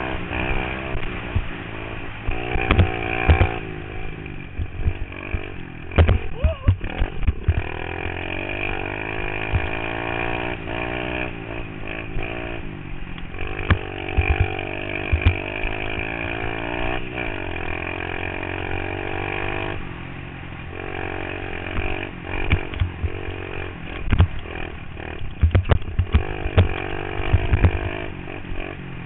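Small pit bike engine, heard from the rider's helmet, revving up and down again and again as the bike is ridden around a dirt motocross track, with frequent sharp knocks throughout.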